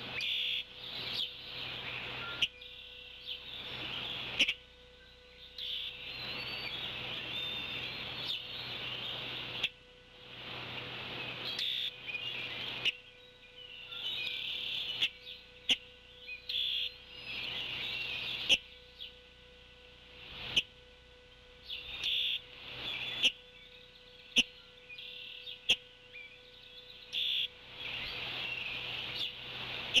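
Wild birds chirping and calling again and again in the surrounding trees, mixed with repeated bursts of hiss a few seconds long and occasional sharp clicks, over a faint steady hum.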